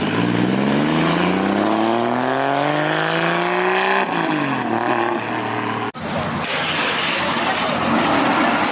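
A car engine accelerating hard, its pitch climbing for about four seconds, dropping at a gear change and climbing again. About six seconds in it cuts off suddenly to a rougher, noisier engine and road sound.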